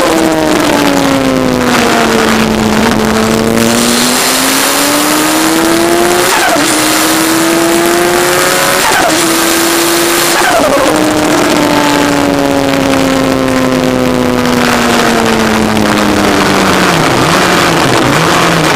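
Turbocharged Kawasaki ZX-10R's inline-four engine heard from an onboard camera, its note rising and falling with the throttle, with a few short falling chirps along the way and sinking lower near the end. Wind rushes over the microphone throughout.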